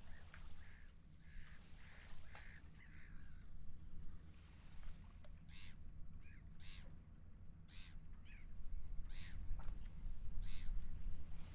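Seagulls calling: softer calls at first, then from about halfway a run of about five sharp calls roughly a second apart, over a steady low rumble.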